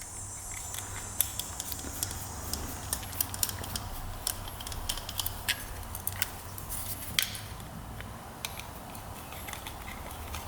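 Scattered light clicks and taps of small metal parts and hand tools being handled while a motorcycle carburetor is taken apart, irregular and a few each second, over a faint steady low hum.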